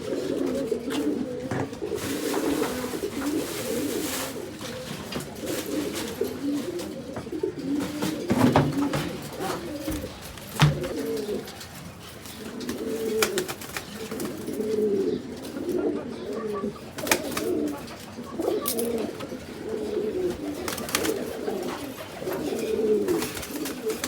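Pigeon cooing over and over in low warbling phrases, with scattered sharp clicks and a louder knock about ten and a half seconds in.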